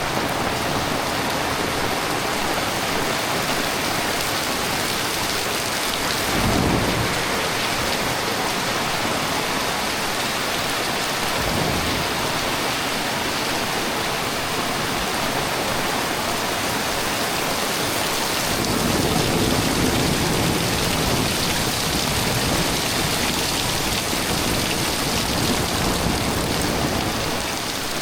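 Heavy rain falling steadily, with thunder: a short low crack about six seconds in, and a longer rolling rumble through much of the second half.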